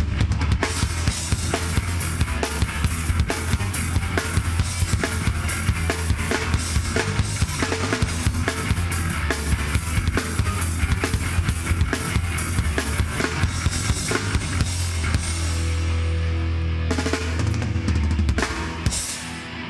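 Live heavy rock band playing loud and instrumental, with fast, dense drum-kit hits over a heavy bass and distorted guitar. About three quarters of the way through, the drumming lets up and a held low chord rings for a few seconds before the level drops near the end.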